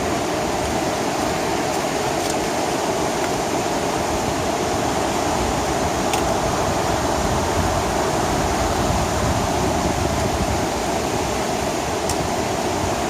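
Creek water rushing steadily, a loud, even roar of fast-flowing water.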